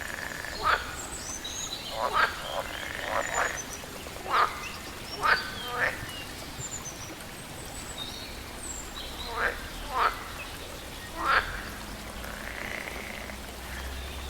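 Frogs croaking in short, loud, irregular calls, about a dozen in all, with a pause of a few seconds in the middle. Faint high bird chirps and a steady water hiss run underneath.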